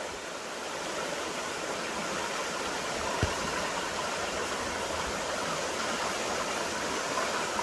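Creek water running over rocks, a steady rushing, with one brief knock about three seconds in.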